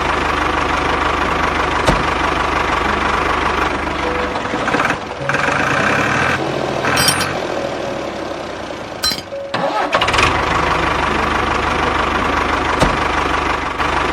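Small engine of a DIY mini tractor running with a rapid, even putter. It drops away and turns uneven in the middle, with a couple of sharp clicks, then picks back up about ten seconds in.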